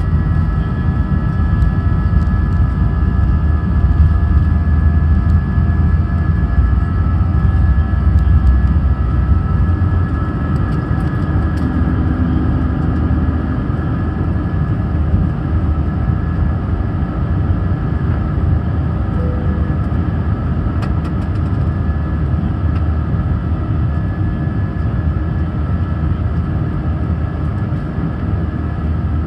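Airbus A319 jet engines and airframe heard from inside the passenger cabin: a steady heavy rumble with several steady whining engine tones, easing slightly after the first ten seconds.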